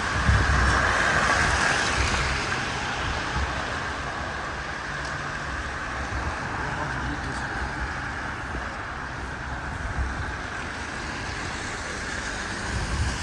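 Road traffic on a city street: a vehicle passing, loudest in the first couple of seconds, then a steady traffic noise.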